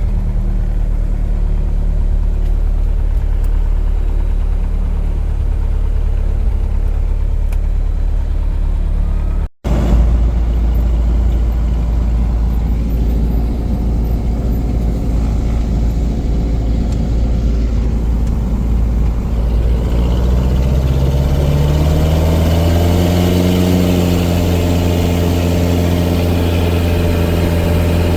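Cessna 177 Cardinal's single piston engine and propeller running steadily at low power. The sound cuts out for an instant about a third of the way in. About two-thirds in, the throttle is opened and the engine's pitch rises over a few seconds, then holds at higher power.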